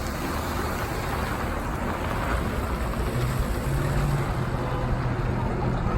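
Semi truck's diesel engine running slowly with a steady low rumble. A low droning note comes in about three seconds in.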